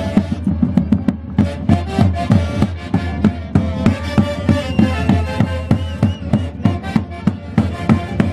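Live Andean orquesta típica playing Santiago music: a sustained melody carried over a steady drum beat.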